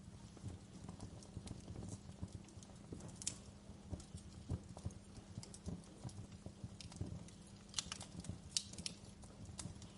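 Wood fire crackling in a fireplace: a steady run of small snaps and pops over a low rumble, with a few louder pops about three seconds in and twice near the end.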